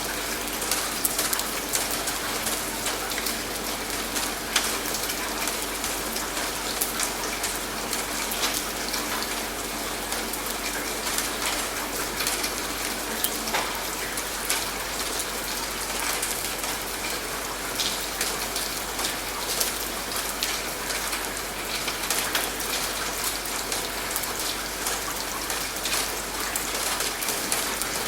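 Steady rain falling, with a dense patter of individual drops ticking throughout.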